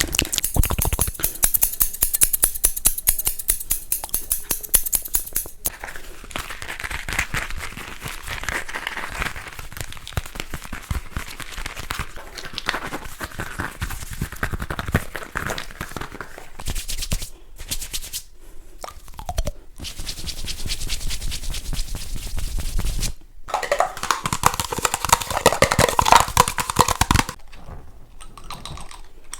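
Close-miked ASMR triggers: fast tapping and scratching on objects, a dense run of clicks and scratchy strokes that switches to a different trigger every few seconds with abrupt cuts.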